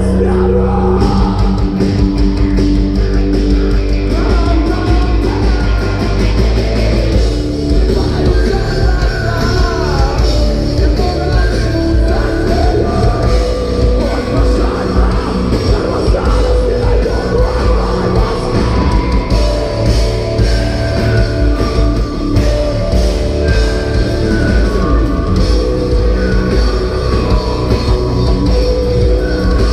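Live rock band playing loudly: distorted electric guitars, bass and drums, with some singing, in a heavy rock song performed in a club.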